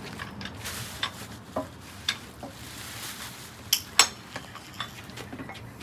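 Scattered light clicks and clatters of hard plastic parts being handled and fitted as clips are pushed into place, with two sharper clicks close together about four seconds in.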